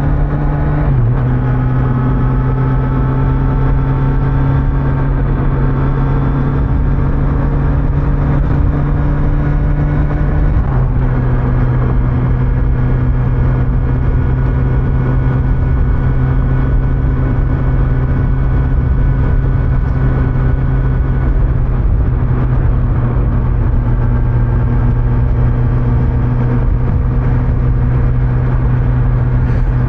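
Kawasaki Z900's stock-exhaust inline-four engine running steadily at riding speed, with two small drops in pitch about a second in and about eleven seconds in. Steady wind and road noise run underneath.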